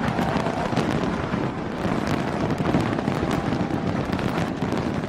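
Dense fireworks barrage: a continuous mass of crackling and popping with many sharp bangs, with no let-up.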